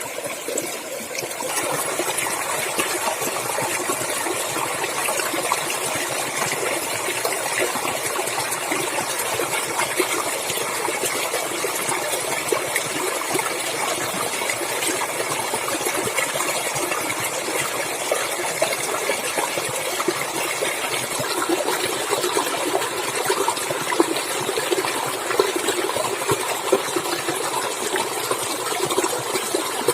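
Water running and splashing in a natural stream, a steady rushing sound. It grows slightly louder and fuller about a second and a half in.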